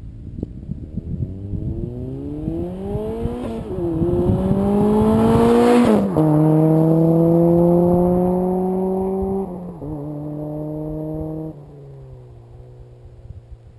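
Turbocharged Mazda Miata four-cylinder engine accelerating hard past the listener. Its pitch climbs and drops sharply at each upshift, about four times. It is loudest as the car goes by, then fades away near the end.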